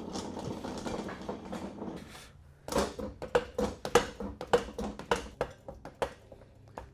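Hand-tool work on the car: a continuous rasping mechanical sound for about two seconds, then a string of sharp metallic clinks that ring briefly, two or three a second.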